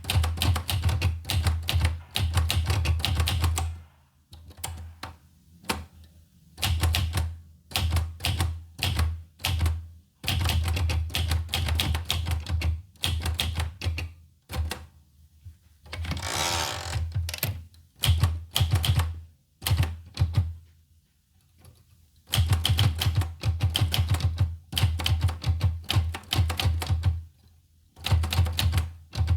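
Olivetti Lettera 25 manual portable typewriter being typed on: runs of rapid key strikes broken by short pauses, with one longer rasping sound of about a second halfway through.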